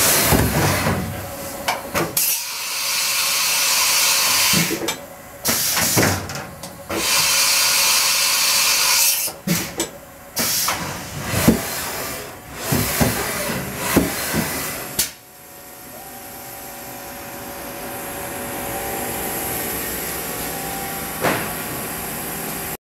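Haas EC-400 horizontal machining center running: loud hissing that stops and starts, with sharp clicks and clunks in between, then a steadier, quieter hiss through the last third.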